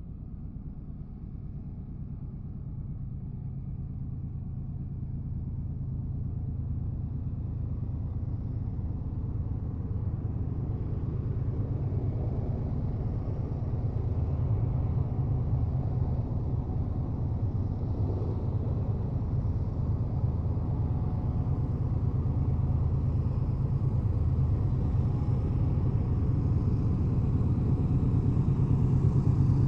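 Freight train approaching: a low rumble that grows steadily louder.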